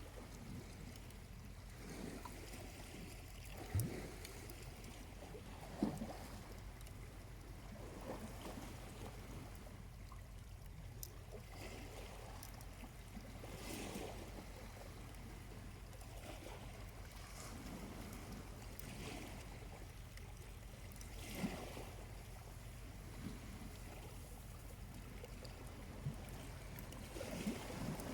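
Small waves lapping softly on the beach in gentle repeated swells, with a few sharp pops from a charcoal campfire.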